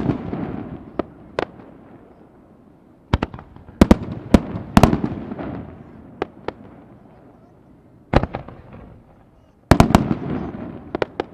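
Fireworks bursting in four volleys of sharp bangs, each volley followed by a fading crackle.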